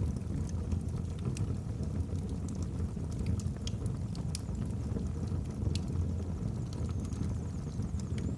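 Wood fire burning in a fireplace: a steady low rumble of flame with scattered crackles and pops from the burning logs.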